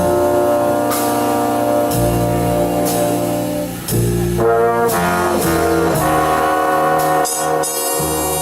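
A big band's brass section plays a slow ballad: held chords from trombones and trumpets that change every couple of seconds, over a slow beat.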